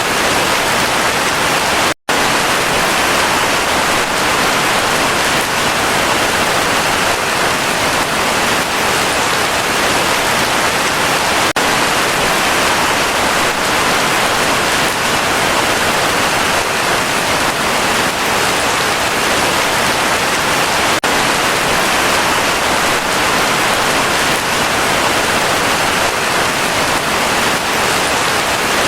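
Heavy rain falling steadily, a dense even hiss strongest in the middle range, which cuts out for an instant about two seconds in.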